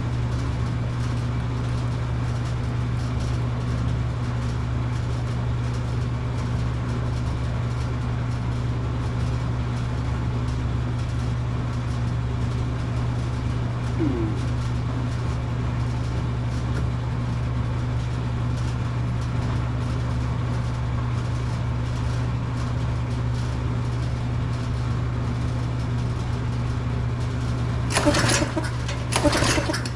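Tecumseh small engine on a Craftsman pressure washer running steadily at a constant speed on its replacement carburetor. About two seconds from the end, a few sharp clattering knocks sound over it.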